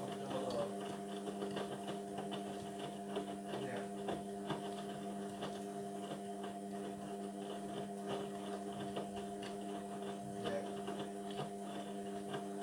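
Indesit washing machine running mid-cycle on its synthetics programme: a steady motor hum with faint light ticks and knocks.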